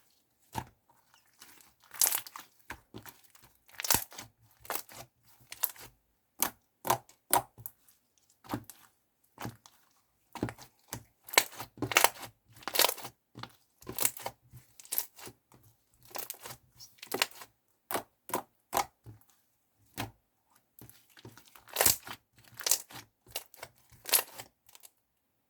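Clear slime made from soothing gel being squeezed and worked by hand, giving irregular sticky pops and crackles in quick clusters that stop just before the end.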